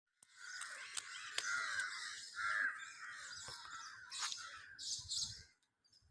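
Parrots squawking: harsh, overlapping calls with a few sharp clicks among them, dying away about five and a half seconds in.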